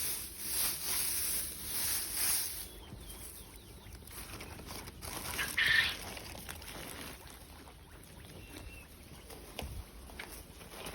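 Poultry calling in a pen: a few short calls, the loudest one about halfway through and a fainter one later. A pulsing hiss runs through the first few seconds.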